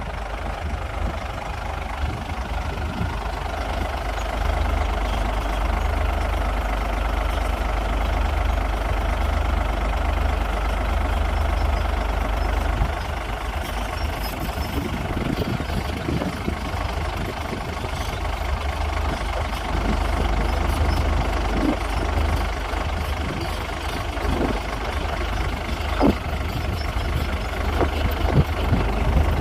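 Diesel engine of a Komatsu D58P bulldozer running steadily, with a few short knocks here and there, the sharpest near the end.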